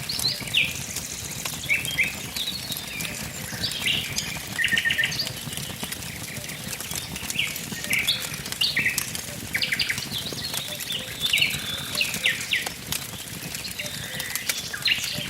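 Wood fire crackling with scattered sharp pops over a steady low rush, while several small birds sing short chirps and quick trills throughout.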